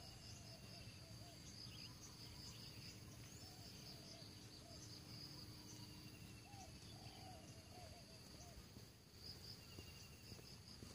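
Faint outdoor ambience: insects trilling steadily in a high register, with short faint chirps, and scattered soft low call notes throughout.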